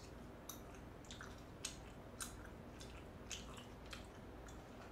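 Faint close-miked chewing of spicy braised chicken: soft wet mouth smacks and clicks at irregular intervals, about seven in all.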